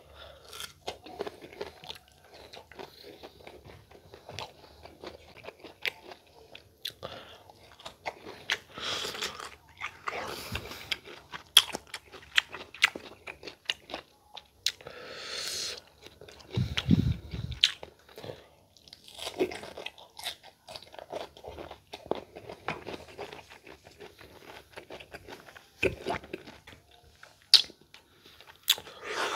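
Crisp crunching and chewing as slices of unripe green mango coated in bagoong and chili sauce are bitten and eaten, with many short, sharp bites and wet mouth sounds. A low thump about halfway through.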